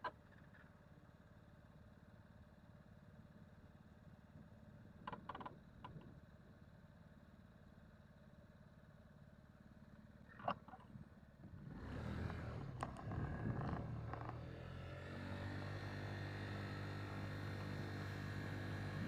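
Jet airliner's engines growing steadily louder as it approaches, starting about two-thirds of the way in, after a quiet stretch with a few faint clicks.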